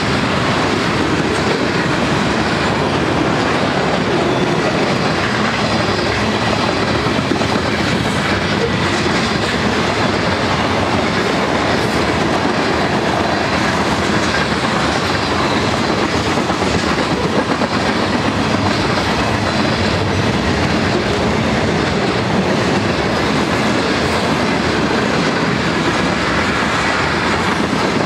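Freight train cars (tank cars, covered hoppers and autoracks) rolling past on the rails, a steady, loud rumble of steel wheels on track.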